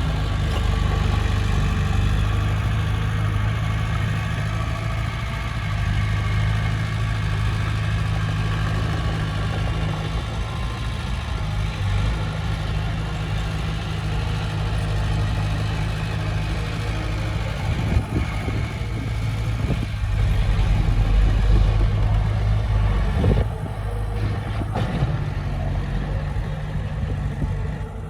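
Heavy diesel engine of earthmoving machinery running steadily, with a single knock about two-thirds through and a louder, deeper rumble shortly after.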